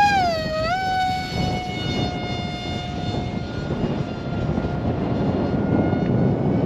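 Electric motor and propeller of a ZOHD Alpha RC model plane at full throttle just after hand launch: a high whine that dips briefly about half a second in, then holds steady as the plane climbs away. Rough wind noise on the microphone from strong crosswinds runs underneath.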